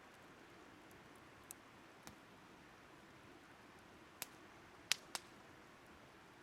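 Burning firewood crackling softly: about five sharp pops over a faint steady hiss, the loudest a pair near the five-second mark.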